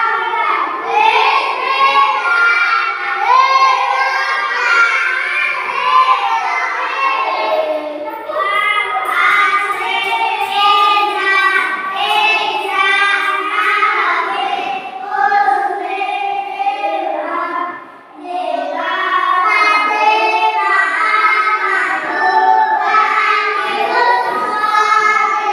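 Young children singing a song together, with a short break about three quarters of the way through.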